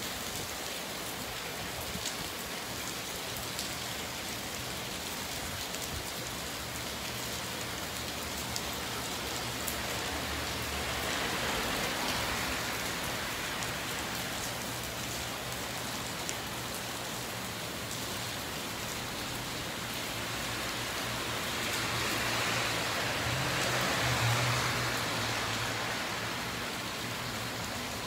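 Steady rain falling on wet pavement, with faint scattered drip ticks. The rain swells louder twice, briefly, with a low hum under it.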